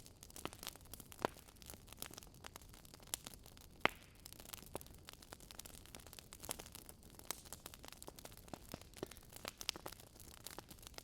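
Wood fire burning in a fireplace, crackling with many irregular small pops and snaps over a soft hiss. Two sharper pops stand out, about a second in and near four seconds in.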